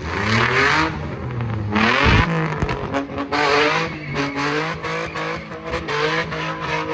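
Car engine revving hard, its pitch rising and falling over and over, with tyres spinning and screeching as a car does donuts.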